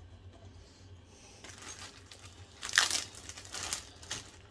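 Crinkly wrapping being handled: rustling starts about a second and a half in, with a louder crackle near the middle and another about a second later.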